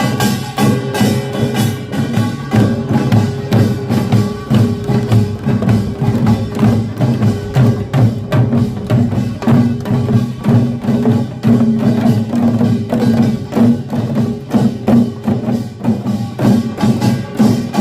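Korean pungmul percussion ensemble playing a fast, dense rhythm of gongs and drums, with a steady ringing tone underneath.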